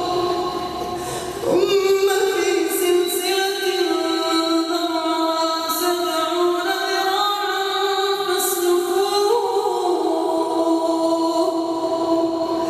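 Chanted Arabic supplication (du'a) in the melodic Quran-recitation style: long, drawn-out vocal notes gliding slowly between pitches.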